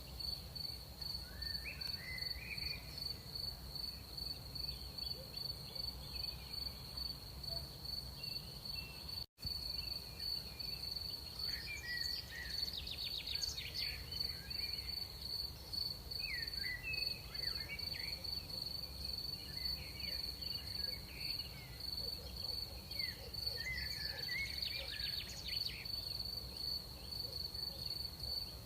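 Crickets trilling steadily in a high, even pulsing chorus, with scattered short chirping calls from other animals over a low background rumble. The sound cuts out completely for an instant about a third of the way through.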